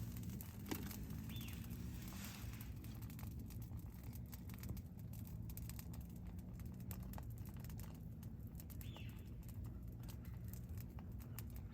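Campfire crackling with irregular small pops over a steady low background hum; two faint short chirps, about a second in and near the end.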